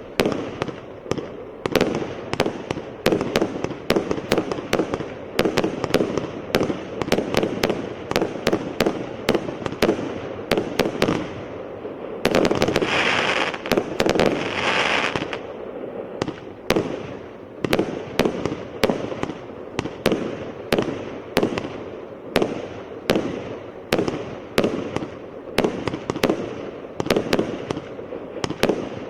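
A 144-shot fireworks cake firing: a rapid string of shots and bursts, three or four a second. About twelve seconds in comes a denser stretch with a loud hiss for around three seconds, then a steady rhythm of about two shots a second.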